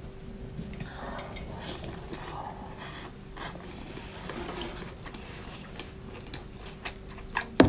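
Close chewing of a lobster tail, soft wet mouth sounds, followed by a few sharp clicks and knocks in the last second, the loudest right at the end.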